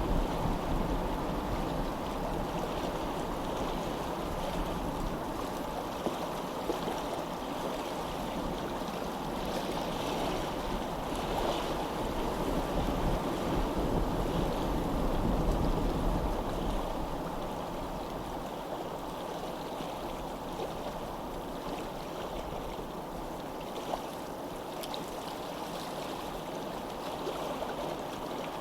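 Steady rush of flowing water, swelling a little around the middle.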